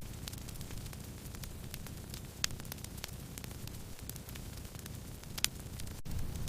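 Burning firewood crackling: a steady low hiss of flame with scattered small crackles and two sharper pops, about two and a half seconds in and near the end.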